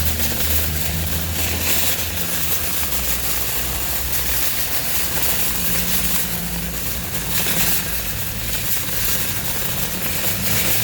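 A vehicle engine running with a low, steady rumble under a steady hiss.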